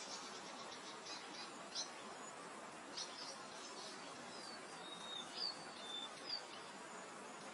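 Steady soft wind-like haze with small songbirds chirping over it: quick high notes in the first two seconds, then a few short whistled slurs from about three to six and a half seconds in.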